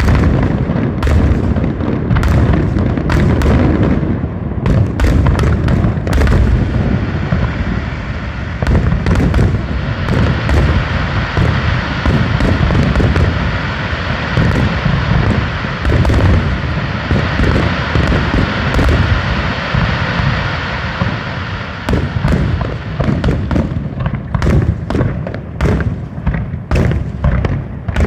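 Fireworks display: a rapid, nearly continuous run of loud booms and bangs, with a steadier hissing wash under them through the middle of the stretch.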